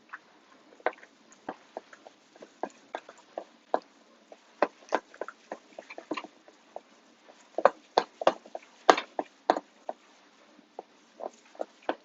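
A utensil knocking and scraping against a mixing bowl while stirring a quiche crust mixture, in irregular taps that come faster and louder about seven and a half seconds in.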